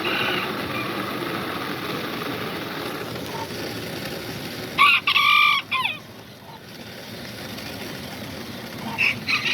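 Kikiriki (bantam) rooster crowing: one loud, high-pitched crow about five seconds in, and a second crow starting near the end. A steady background noise runs under the first half.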